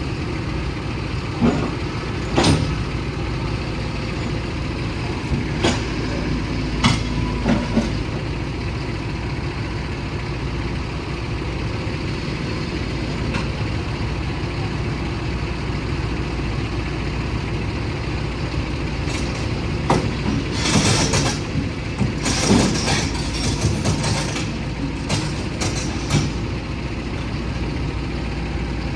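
Heavy diesel engine running steadily, with a few sharp knocks and, about two-thirds of the way through, a run of short hissing or clattering bursts.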